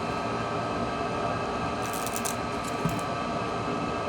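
Steady background hum of room equipment, with a few faint light clicks about two seconds in from small phone parts being handled.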